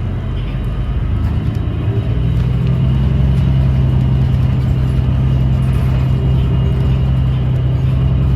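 2017 New Flyer XDE40 diesel-electric hybrid bus under way, heard from on board: a steady low drone from the drivetrain that grows louder about two seconds in and then holds. This is the bus's odd sound, which the rider puts down to the transmission or possibly a loose screw or panel rather than the engine.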